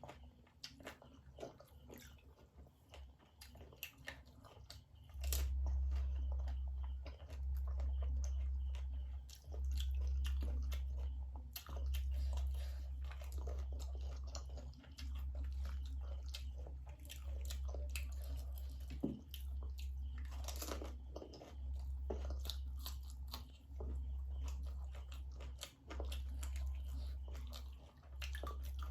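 Crisp panipuri shells crunching as they are bitten and chewed, with many sharp crunches and wet chewing. From about five seconds in, a loud deep hum runs underneath, dipping briefly every couple of seconds.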